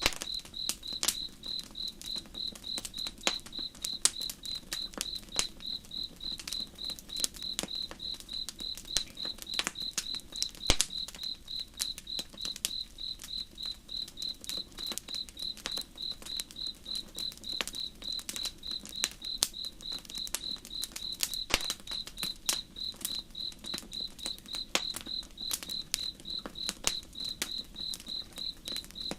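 Campfire crackling, with irregular sharp pops of varying loudness, over an insect chirping steadily in an even, rapid pulse.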